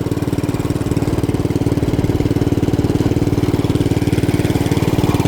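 A small engine idling steadily, with an even, fast pulsing beat that holds the same pace throughout.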